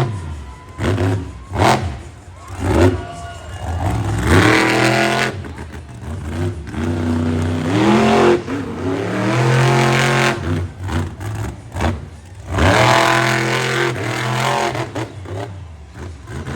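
Monster truck engine revving hard in repeated bursts, its pitch climbing and dropping every second or two. A couple of sharp bangs come in the first few seconds.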